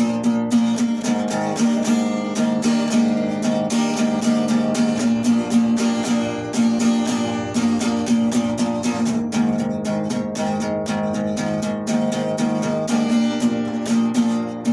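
Acoustic guitar strummed in a steady rhythm, repeating the song's chord progression without singing.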